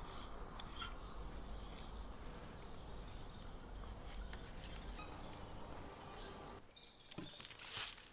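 Faint outdoor background noise: a low steady rumble with a few short, faint chirps and clicks. It drops away shortly before the end.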